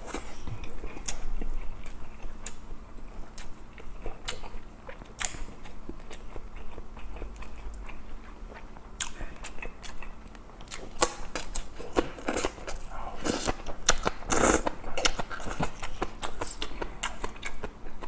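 Close-miked eating sounds: wet chewing and lip smacks on a mouthful of grilled fish, made up of many short clicks. The clicks grow denser and louder in the second half, when green onion kimchi is bitten and chewed.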